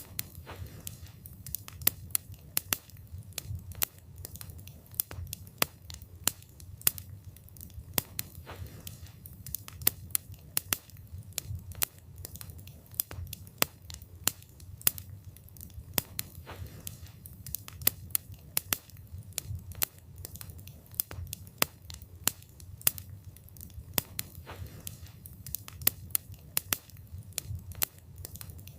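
Wood campfire burning: many sharp crackles and pops of the burning wood at uneven intervals, over a steady low rumble of the flames.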